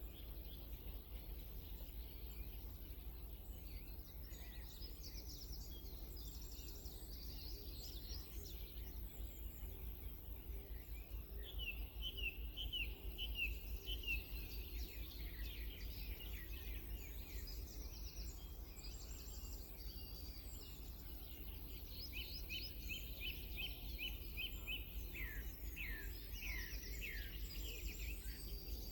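Wild songbirds singing: a scatter of high chirps throughout, with two runs of quick repeated notes about a third of the way in and again in the last third, over a steady low hum.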